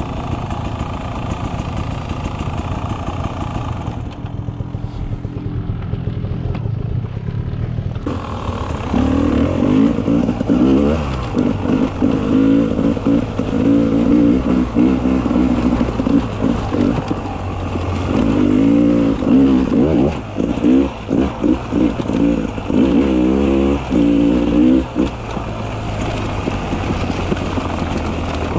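Beta 300 RR two-stroke enduro motorcycle engine under way, its revs rising and falling with the throttle. It runs lower and quieter for a few seconds about four seconds in, then surges up and down repeatedly from about eight seconds in until near the end.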